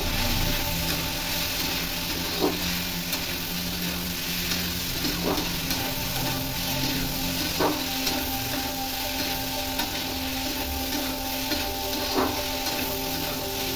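Chickpeas with onion and tomato sizzling as they fry in a pan, stirred with a metal spatula that knocks against the pan four times.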